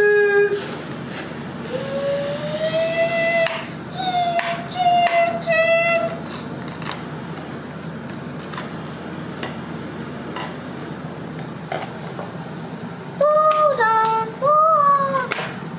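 A child's voice making long, held, wordless sung notes, some gliding up, several in the first six seconds and again near the end. In between there are only light clicks over a steady low hum.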